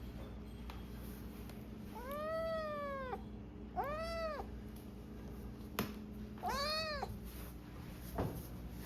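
Abyssinian kitten meowing three times, each call rising and then falling in pitch, the first the longest. A sharp click comes between the second and third meows.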